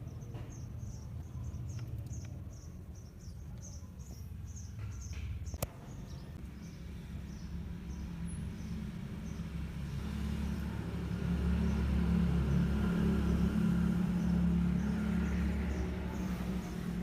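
A vehicle engine running with a low rumble that grows louder partway through, as the SUV is moved into place for the winch. A high chirp repeats about two to three times a second over it, and there is a single sharp click about five and a half seconds in.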